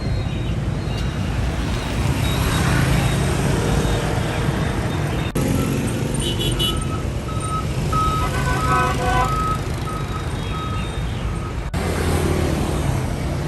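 Motor vehicle engines running with road traffic noise, across spliced clips that cut suddenly twice. The middle clip carries a run of short high beeping tones.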